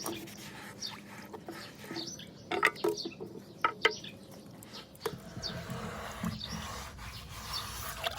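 Irregular knocks and scraping as a bird-bath fountain part is cleaned by hand, over birds chirping. About five seconds in, a steady rushing noise sets in.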